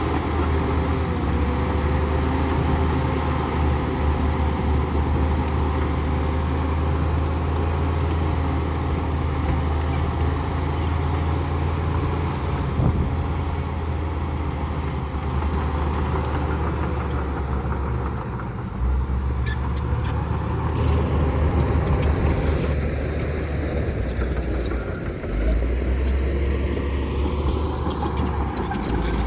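Komatsu D60P bulldozer's diesel engine running with a steady deep drone, its pitch and level shifting about two-thirds of the way through and again near the end as the dozer works. Faint metallic ticks and clinks come through in the second half.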